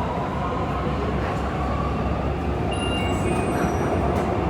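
Nanjing Metro Line 7 train heard from inside the car: steady running rumble with a motor whine that rises slowly in pitch as the train gathers speed.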